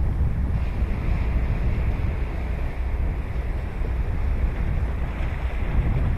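Ocean waves washing onto a beach, the surf swelling about half a second in and again near the end, with steady wind buffeting the microphone.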